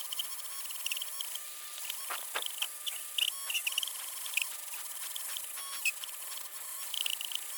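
Small electric polishing tool buffing a clear plastic model part with fine polishing compound: a high, fluttering chatter that comes and goes over a steady hiss, with a few scattered ticks.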